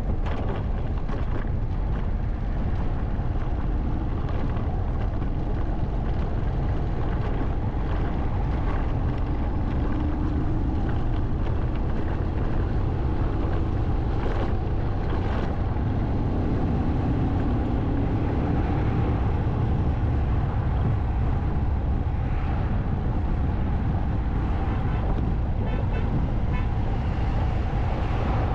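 Motorcycle riding along a road: a steady low rumble of engine and wind, with a faint humming tone rising and fading around the middle.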